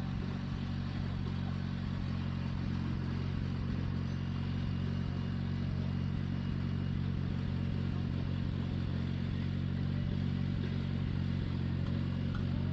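Tractor engine running at a steady speed, without revving up or down.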